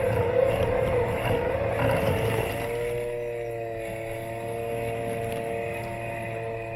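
Robotic lawn mower's electric motors whining, heard from a camera taped to its body. The sound is rough and wavering for the first couple of seconds, then settles into a steadier, even whine.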